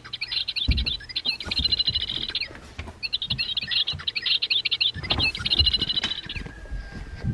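Recorded European goldfinch song, quick high twittering, played from a Wild Republic plush bird's sound box. It plays twice, with a short pause between, over the soft knocks of the toy being handled.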